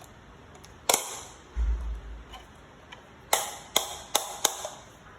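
Sharp clicks and taps: one about a second in, then four in quick succession near the end, with a brief low rumble between them.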